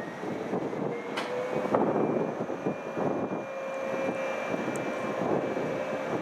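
Series 415 AC/DC electric train coasting through the power-changeover dead section with its circuit breaker open: a steady running rumble of the wheels on the rails, with a thin steady whine that comes in about two seconds in.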